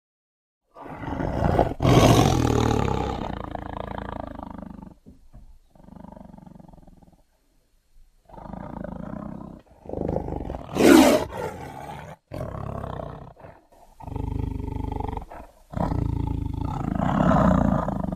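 Cave troll creature sound effects: a string of six or seven roars separated by short gaps. The first is the longest, at about four seconds, and a short, loud one falls near the middle.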